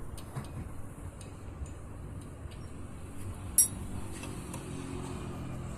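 Light metallic clinks and ticks of hand tools and engine parts being handled on a motorcycle engine, with one sharper click about three and a half seconds in, over a steady low hum.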